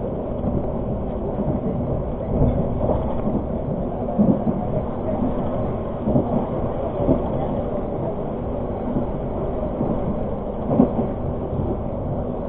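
Argo Parahyangan passenger train running, heard from inside a carriage: a steady rumble with a few irregular knocks and jolts.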